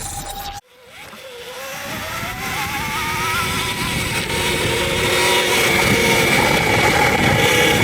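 Electric dirt bike's motor whining, rising in pitch as the bike speeds up and then holding steady, over tyre and wind noise. The sound cuts out briefly about half a second in, then builds up.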